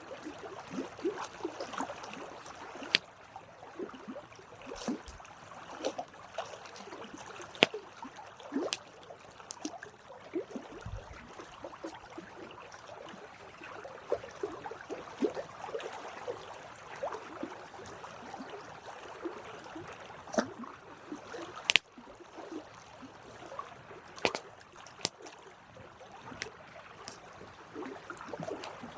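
Wood campfire crackling, with a soft steady flutter of flames and irregular sharp pops and snaps.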